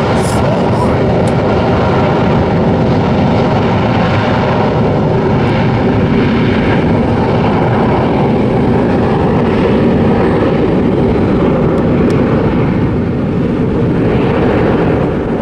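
Jet engines of a Boeing 737 airliner at takeoff power, a loud, steady roar that holds at much the same level throughout.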